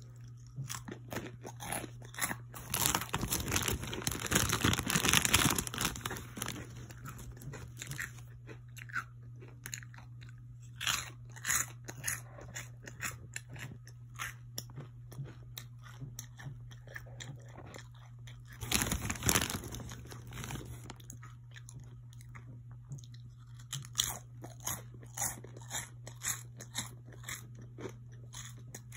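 A person crunching and chewing Funyuns Flamin' Hot onion-flavored rings close to the microphone: crisp crunches throughout, with two louder, denser stretches, one from about three to six seconds in and one around nineteen seconds in.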